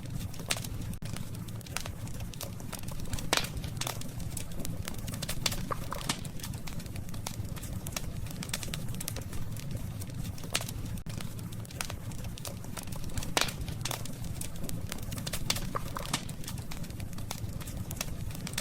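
Wood campfire crackling, with frequent sharp pops and snaps over a steady low rumble of the burning fire.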